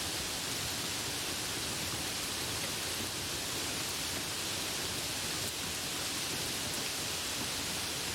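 Steady rain, an even hiss with no thunder or single drops standing out.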